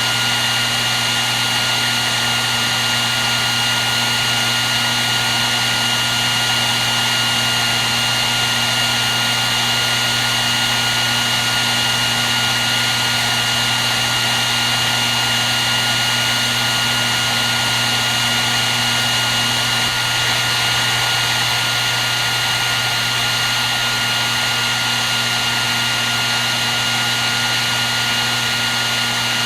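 Hair dryer running continuously: an even rushing airflow with a steady high-pitched motor whine and a low hum, unchanging throughout.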